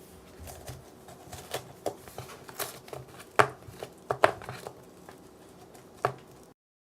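Scattered soft clicks and taps of small objects being handled, a little louder about halfway through, cut off abruptly by a brief dropout just before the end.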